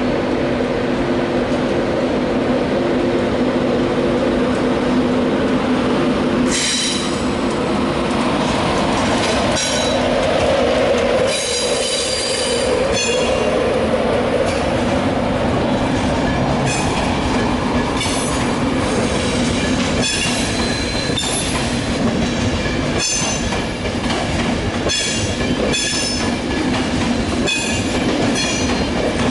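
InterCity 225 train, a Class 91 electric locomotive with Mark 4 coaches, pulling out and rolling past over a steady hum. From about six seconds in, its wheels click over rail joints at an irregular rhythm.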